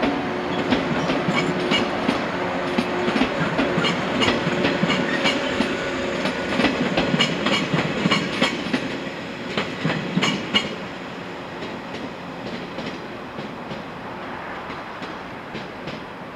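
Three-car electric train passing, its wheels clicking over rail joints in a quick clickety-clack over a steady rumble, then fading as it pulls away about eleven seconds in.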